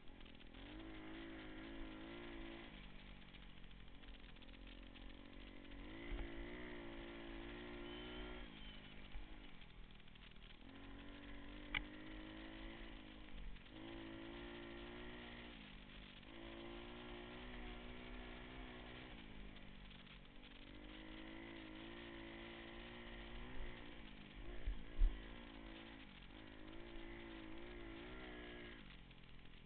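Pit bike engine revving up and easing off over and over as the bike is ridden, its pitch climbing then dropping every few seconds. A sharp click about twelve seconds in and a few loud knocks near the end break in over the engine.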